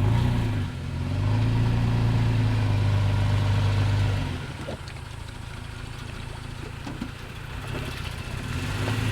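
A vehicle engine running with a steady low hum. It is louder for the first four seconds, eases off to a quieter run, and picks up again near the end.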